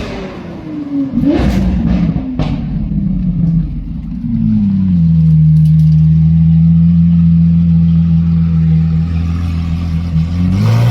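V12 car engine and exhaust revving, its pitch falling and rising over the first few seconds. From about four seconds in it holds one steady note at constant revs, then starts to climb again near the end.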